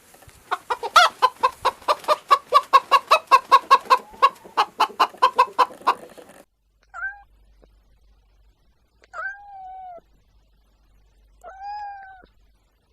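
A chicken clucking rapidly, about five calls a second for some six seconds. Then, after a cut, a cat meows three times, each meow less than a second long.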